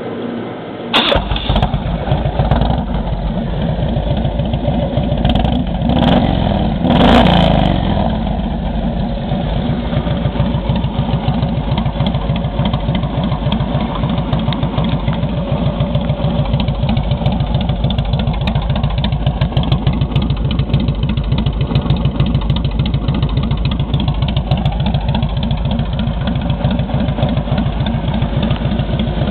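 A 1996 Harley-Davidson Dyna Low Rider's Evolution V-twin starts about a second in, is blipped a couple of times, then idles with an even pulsing beat. It runs through a 2-into-1 exhaust with a shark-tail muffler stripped of its packing and baffle plug and a straight-through fishtail extension, which makes it louder than a stock muffler.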